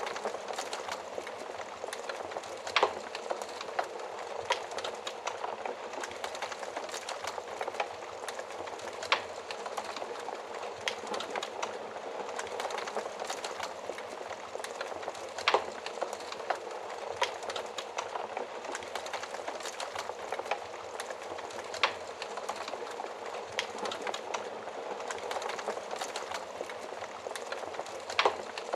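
Wood fire burning in an oven: a steady hiss and rustle of flames with frequent small crackles and snaps, a few sharper pops standing out every several seconds.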